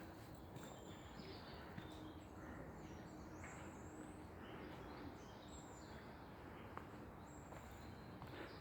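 Faint, scattered bird chirps over a steady hiss of background noise.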